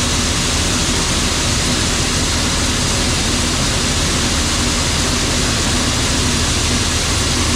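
Farm tractor engine running loud and steady at a constant speed, with its PTO engaged.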